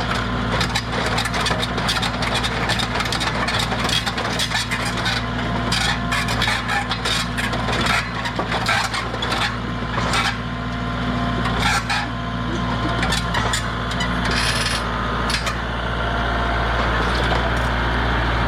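Scraping, rubbing and clicking of hands and tools working on a riding mower's engine, over a steady low hum.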